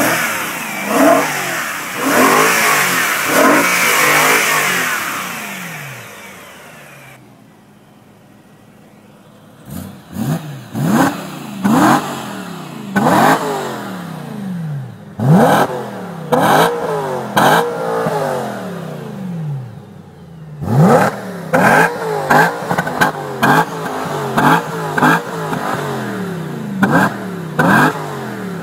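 BMW M3 E92's V8 engine revved while standing still, heard at the exhaust: a long high rev at first that dies away, then repeated sharp throttle blips, each a quick rise and fall in pitch, coming faster near the end.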